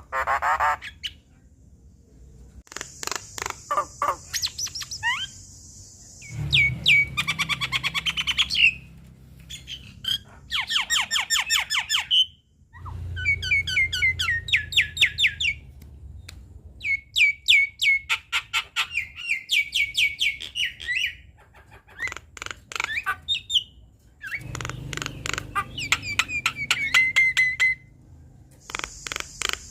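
Javan myna (jalak kebo) singing a varied, chattering song: bouts of fast repeated notes, trills and squawky calls a few seconds long, with short pauses between them.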